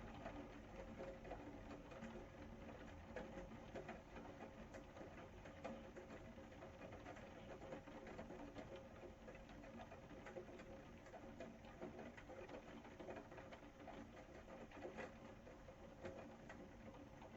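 Faint, steady rain pattering: a dense run of small drop ticks with no pauses.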